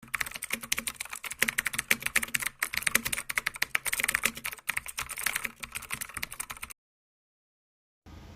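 Rapid, irregular clicking of computer keyboard typing, many keystrokes a second, cutting off suddenly near the end.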